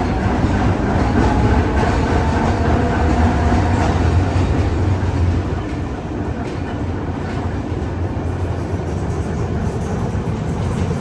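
Narrow-gauge tram-train running on the rails: a steady low rumble with light clicks of the wheels over the track, and a faint whining tone in the first few seconds.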